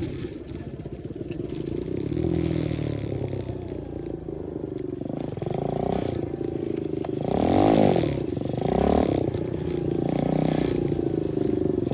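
125cc dirt bike engine running at low revs, then blipped up and down several times, the loudest rev about eight seconds in.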